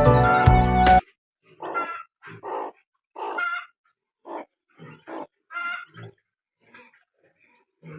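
Background music cuts off about a second in. It is followed by about nine short duck quacks at irregular intervals, each a brief call separated by silence.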